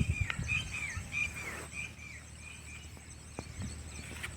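Outdoor ambience of birds chirping: short, repeated falling calls, thickest in the first two seconds, over a faint steady high insect-like whine. A few low thumps sit at the very start.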